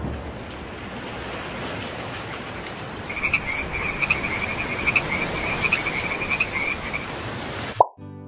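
Nature ambience sound effect: a steady hiss, with a rapid high chirping trill from about three seconds in to about seven. Near the end the ambience cuts off abruptly and a single short pop sounds.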